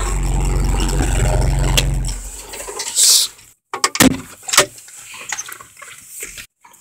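Tractor engine running with a steady low rumble that dies away about two seconds in, followed by a short hiss and a few scattered clicks and knocks.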